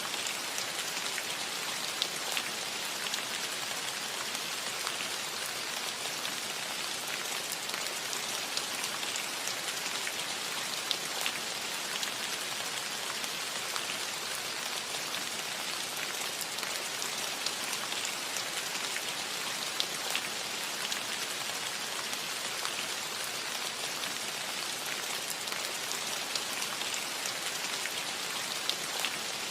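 Gentle rain falling steadily on a metal roof: an even hiss with many small, sharp drop ticks scattered through it.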